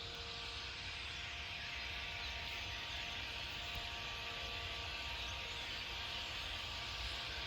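Steady outdoor background noise: an even hiss with a low rumble and a faint steady hum, with no distinct bird call standing out.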